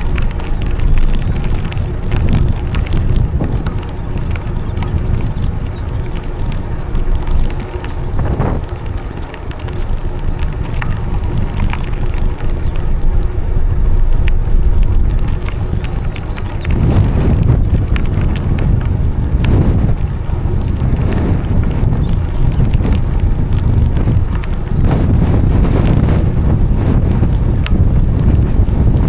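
Wind buffeting the microphone while riding a bicycle, with a steady low rumble and scattered small knocks from the ride. The rumble grows heavier about two-thirds of the way through.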